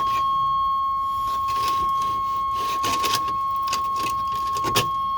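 Steady high-pitched warning tone from the 1984 GMC Jimmy's cab, held on one note, with keys jangling and small clicks and knocks over it, the sharpest knock near the end.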